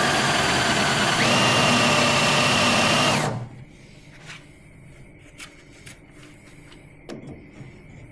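Electric drill boring out a spot weld in the car body's sheet steel. It runs with a steady whine that steps up in pitch about a second in, then stops suddenly after about three seconds. A few light clicks and taps follow.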